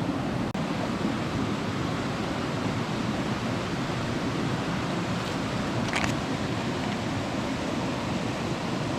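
Mountain stream rushing steadily, a constant even noise of flowing water over rocks. A brief sharp high sound cuts through about six seconds in.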